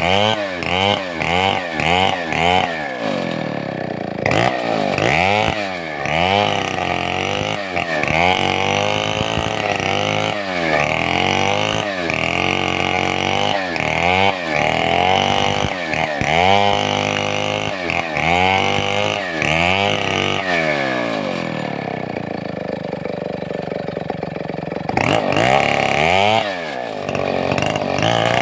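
Large Stihl 070-pattern two-stroke chainsaw running, its engine note rising and falling again and again, in quick swells at first and longer ones later, with a steadier stretch near the end.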